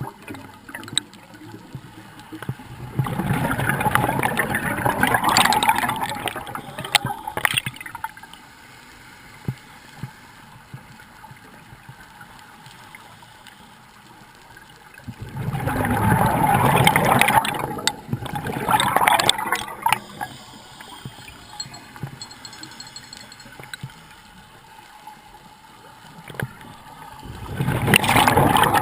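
Scuba diver's exhaled bubbles gurgling out of the regulator underwater in three long, slow breaths, roughly every twelve seconds, with quieter water noise between.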